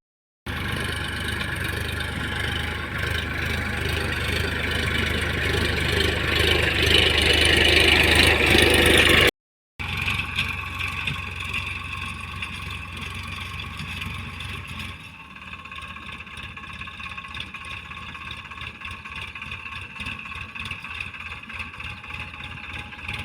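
Tractor engine running, growing louder over the first several seconds; the sound cuts off for half a second and comes back quieter, dropping again about two-thirds of the way through.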